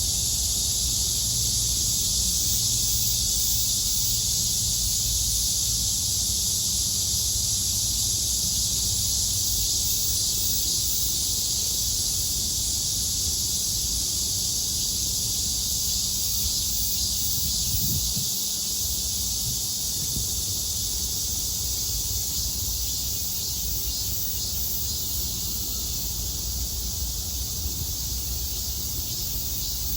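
Cicadas droning in a steady, dense chorus, with a low rumble underneath that eases a little partway through.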